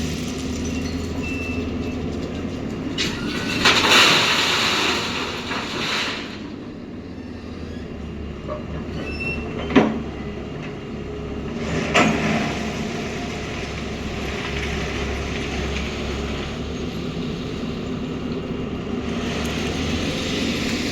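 A JCB backhoe loader's diesel engine running steadily while it loads crushed stone into a truck, with a loud rush of stones pouring for about two seconds around four seconds in. Two sharp metal knocks follow, about ten and twelve seconds in.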